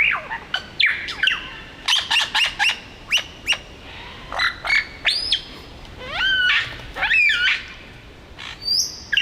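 Male superb lyrebird singing a rapid medley of mimicked calls: steep downward-sweeping notes, clicks and rising, looping whistles, one after another with short gaps.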